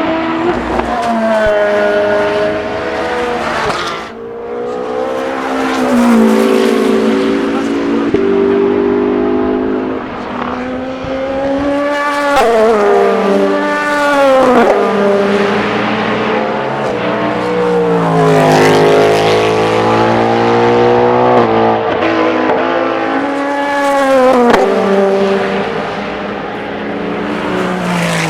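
Endurance race cars passing one after another at speed. Each engine rises and falls in pitch through gear changes and drops away sharply as it goes by.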